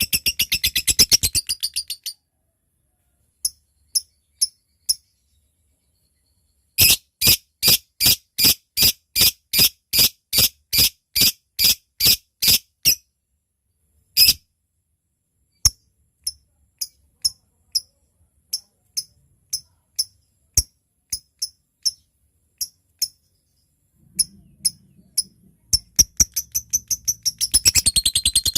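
Lovebird calling. A fast chattering trill (ngekek) breaks off about two seconds in. It is followed by sharp single ticking chirps (ngetik): a few at first, then a steady run of about two and a half loud chirps a second, then scattered ones. Near the end a long, fast chattering trill starts up again.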